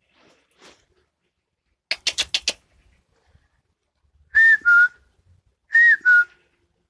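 A magpie's harsh rattling chatter, a quick run of about six strokes, followed by a person whistling a two-note falling call twice, louder than the bird.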